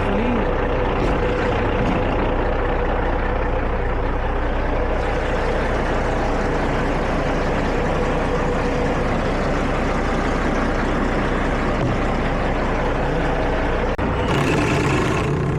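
Semi truck's diesel engine idling steadily, just started after a no-start from a dead battery. Near the end there is a short burst of hissing noise.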